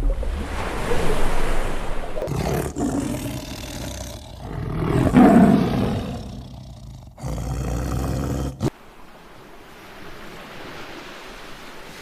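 A large animal roaring in several rough, deep calls, loudest about five seconds in. About nine seconds in it cuts off suddenly to a quieter steady wash like surf.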